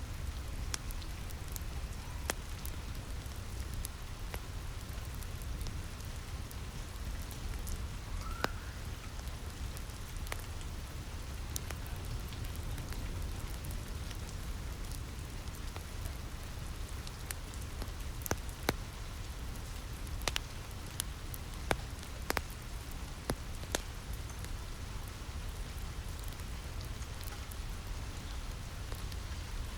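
Steady rainfall tapping on a roof, with a deep low rumble underneath. Scattered sharp pops and crackles of a wood fire come at irregular moments, a few louder ones about two-thirds of the way through.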